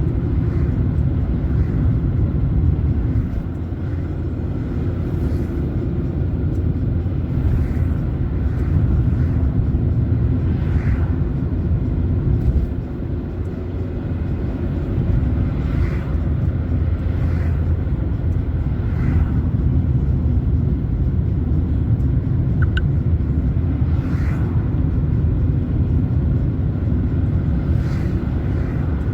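A car driving along a road: a steady low rumble of engine and tyres, with faint knocks now and then.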